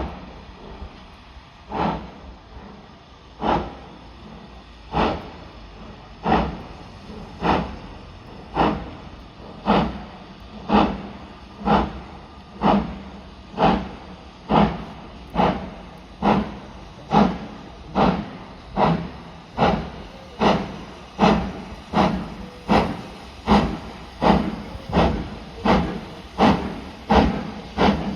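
Steam locomotive pulling away, its exhaust beats coming steadily quicker, from one every second and a half or so to more than one a second, with a hiss of steam between them.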